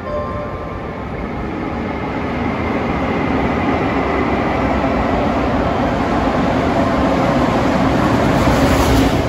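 EF510 electric locomotive hauling a container freight train, approaching and running past: a steady rumble of wheels on rail that grows louder and peaks near the end as the locomotive goes by.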